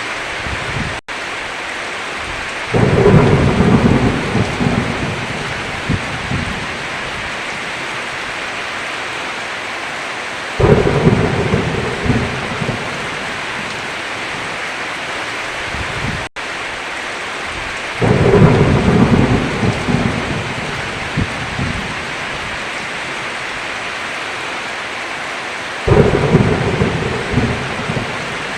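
Steady heavy rain with four claps of thunder about eight seconds apart, each breaking in suddenly and rumbling on for three or four seconds. The rain cuts out for an instant twice.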